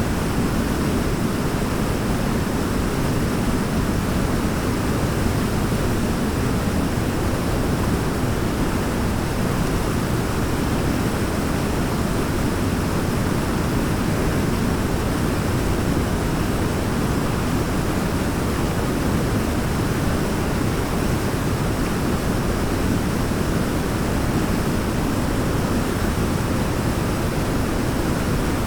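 Waterfall: a steady, deep rushing of falling water, an even wash of noise with no breaks or changes.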